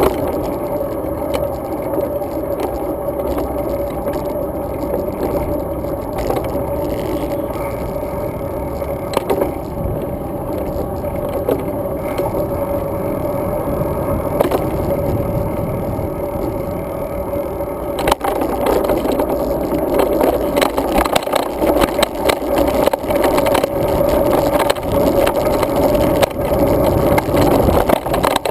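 Road bike in motion, heard from a mounted action camera: steady wind and tyre noise with a hum, and the rattle of the bike and camera mount. About eighteen seconds in the ride turns rougher and louder, with frequent clicks and knocks as the bike jolts over a bumpier surface.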